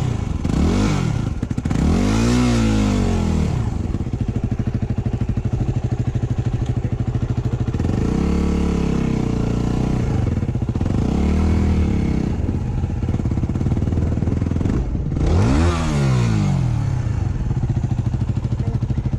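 Motorcycle engine running off-road, revved up and back down about five times, each a rising then falling pitch, with steadier low running between.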